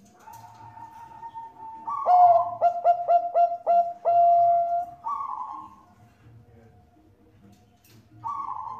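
Zebra dove (Bangkok-strain perkutut) cooing: a soft opening note, then about two seconds in a loud phrase of about five quick clipped coos that runs into a long held coo and a falling note. A single coo starts again near the end.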